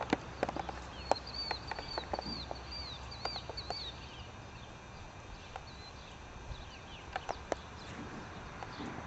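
A bird singing a run of short, high, rising-and-falling notes, about three a second, for roughly three seconds starting about a second in, with scattered sharp clicks around it.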